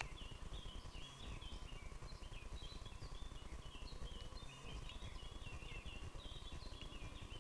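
Songbirds singing in a run of short, quick high chirps, over a steady low rumble.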